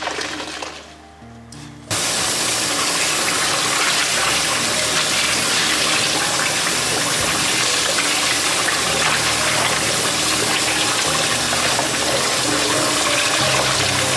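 Water running hard and steadily from a tap, an even rush that starts abruptly about two seconds in, with soft background music underneath.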